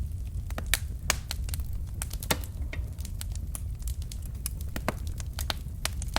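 Wood fire of burning logs crackling, with irregular sharp pops and a few louder snaps over a steady low rumble of flame.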